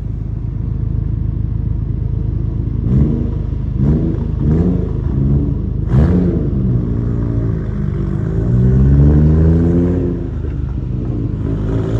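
Honda Civic Type R engine revving under acceleration. Its pitch climbs and drops several times in quick succession, then rises in a longer pull and falls back.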